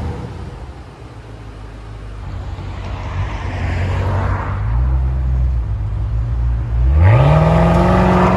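BMW X6 M Competition's twin-turbo V8 running through a Fi EXHAUST valved catback with the valves open: a low, steady exhaust drone, then about seven seconds in a hard acceleration with the pitch climbing quickly.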